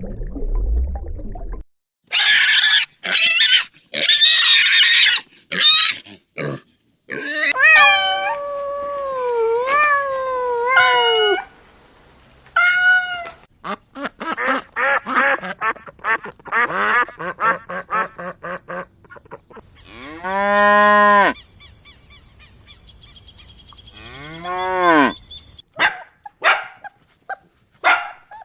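A rapid series of different animal calls, one species after another, each cut off abruptly: shrill cries, calls that slide up and down in pitch, quick rattling calls, and two long calls that rise and fall.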